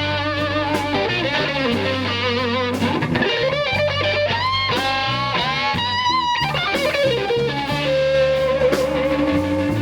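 Electric guitar playing a slow-blues lead fill of bent notes with wide vibrato, over bass guitar and drums.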